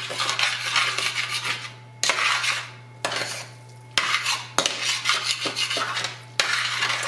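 A utensil scraping and stirring in a skillet in repeated strokes about once a second, working the browned bits off the bottom of the pan into a casserole mixture. A steady low hum runs underneath.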